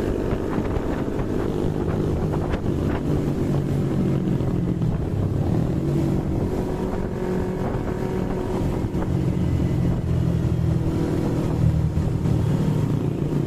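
Yamaha MT-25's parallel-twin engine running at fairly steady revs while the bike is ridden, with some wind on the microphone.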